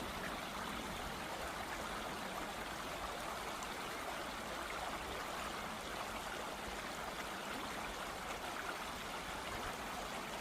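Steady rush of running water from a stream, an even noise that keeps on without change.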